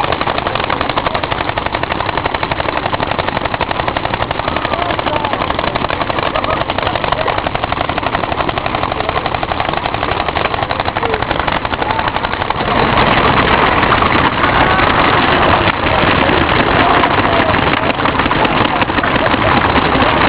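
Many paintball markers firing at once, a dense, rapid, continuous popping of shots. About two-thirds of the way through the firing gets louder, with shouting mixed in.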